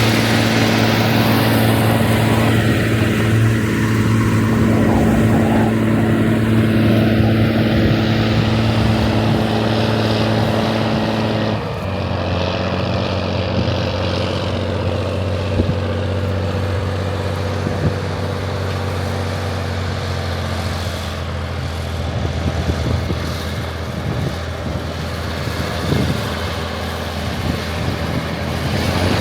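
Diesel engine of a Rába 250 tractor running steadily. About twelve seconds in, its note steps down and it runs on slightly quieter.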